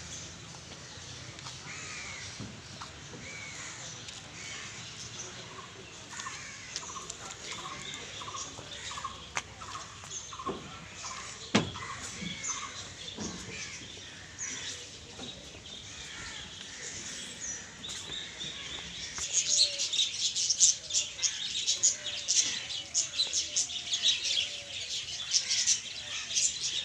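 Many birds chirping and calling, short quick notes overlapping; about two-thirds of the way through the chirping grows much denser and louder into a chattering chorus.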